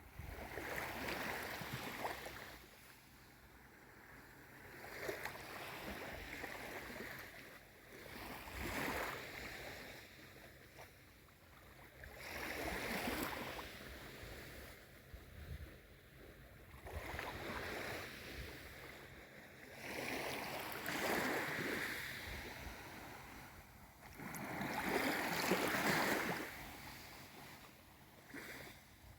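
Small waves of a calm sea washing in and draining back, each swell rising and fading every few seconds.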